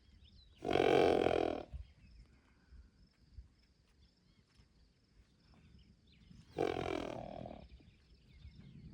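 A mustang horse giving two loud calls, each about a second long: one near the start and another about six seconds later, the second falling a little in pitch.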